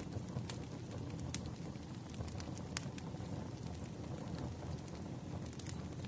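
Wood fire crackling: a steady low rumble of burning with a few sharp pops scattered through.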